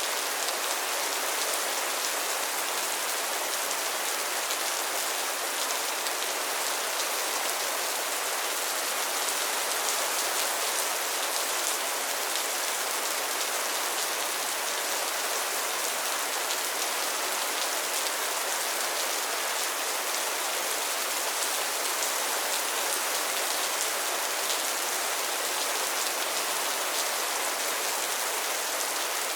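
Steady rain falling on a pond and its lily pads, a dense even patter of drops on water and leaves.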